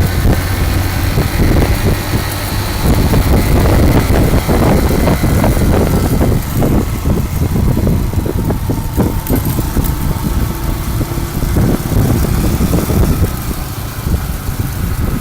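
Motorcycle engine running steadily while being ridden along the road.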